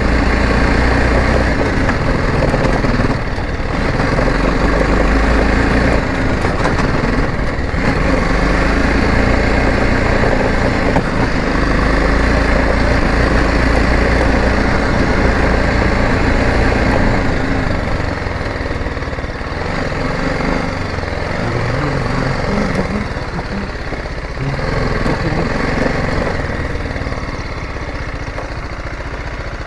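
Motorcycle engine running steadily while riding, with brief dips in level twice in the first eight seconds and a somewhat lower level from about halfway through.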